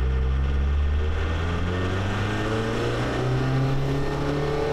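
VW Rabbit turbodiesel engine pulling hard under acceleration, heard from inside the cabin. Its pitch rises steadily, then drops near the end as it shifts up.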